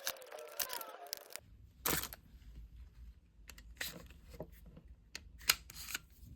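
Scattered small clicks and knocks of a hot glue gun's plastic housing and parts being handled and fitted back together, with a squeaky creak in the first second or so. A steady low hum sets in about a second and a half in.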